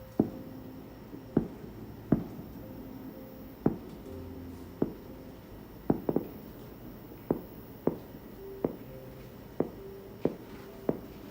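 Aerial fireworks shells bursting one after another, a sharp bang about every second, each with a short echoing tail; two or three come close together about six seconds in.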